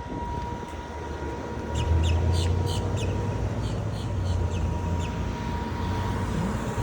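Low rumble of a vehicle going by, with a quick run of short, high bird chirps about two to four seconds in.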